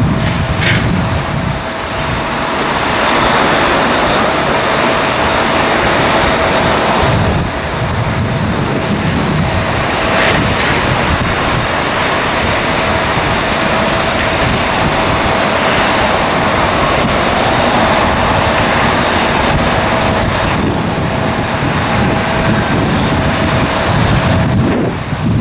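Airliner jet engine noise: a wide steady rush with a thin steady whine running through it, and wind buffeting the microphone in low gusts.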